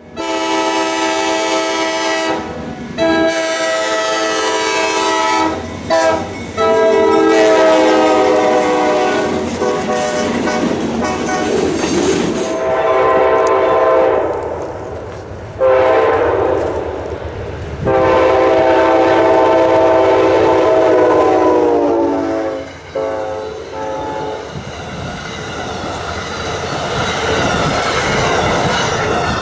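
Amtrak passenger locomotive's air horn sounding a series of blasts, mostly long with a brief one among them. The horn's pitch slides down as the locomotive goes by, and then the rushing clatter of the train's wheels on the rails takes over.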